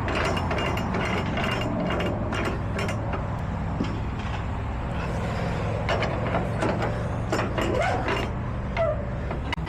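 Ratchet tie-down straps being cranked tight on a truck's load, a run of irregular clicks, over a steady idling truck engine.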